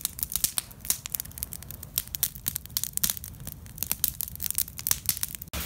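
Wood fire in a stone fireplace crackling and popping, with irregular sharp snaps over a low rumble; it cuts off abruptly near the end.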